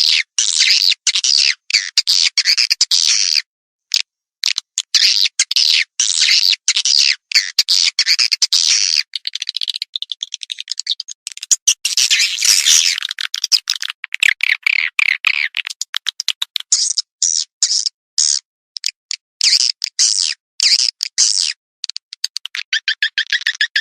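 Recorded edible-nest swiftlet calls, played as a swiftlet-farming lure call: rapid trains of high, buzzy chirps and clicks in quick succession, broken by brief gaps.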